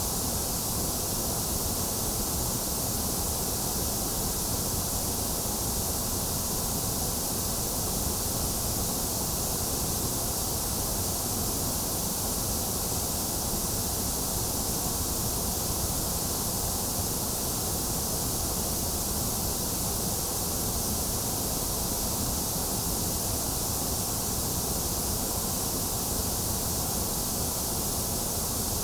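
Steady white noise: an even, unchanging hiss, brightest in the highest range with a hollow in the upper middle.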